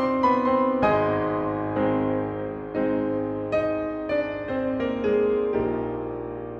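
Piano playing a slow line of single notes over held lower notes, heard through a long reverb. The last low note, about five and a half seconds in, rings on and fades away slowly.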